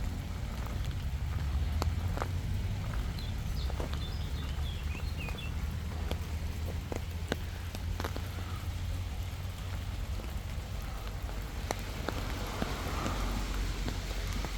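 Footsteps along a park path with scattered light crackles and clicks, over a steady low rumble of wind on the microphone.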